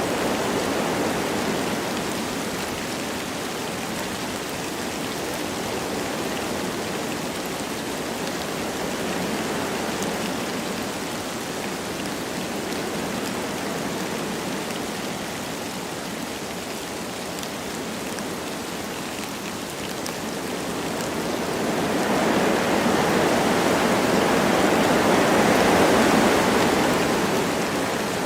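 Wind blowing through forest trees with light rain: a steady rushing noise that swells louder about two-thirds of the way through and eases off near the end.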